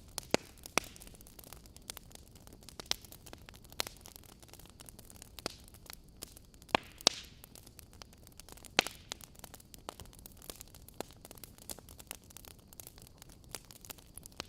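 Wood logs burning in a fireplace, crackling: irregular sharp pops and snaps over a low hiss, with a few louder pops near the start and around the middle.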